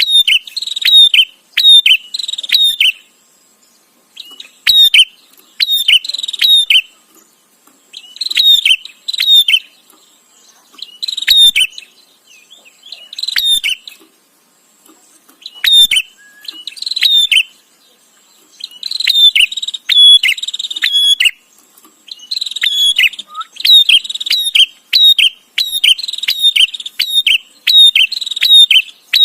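Prinia (prenjak) calling loudly in rapid bursts of sharp, chipping notes, each burst a second or two long, with short pauses between.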